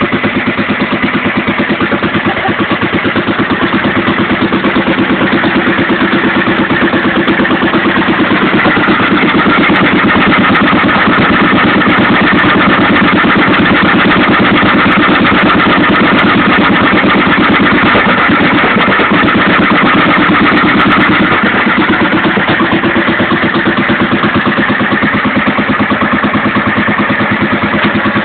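A 1926 Bernard W2 stationary engine running steadily after being started, with a fast, even beat of firing pulses.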